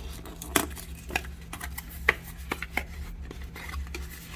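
Scattered light clicks and taps of a GoPro bundle's packaging and accessories being handled, a handful of sharp ones within the first three seconds, over a steady low hum.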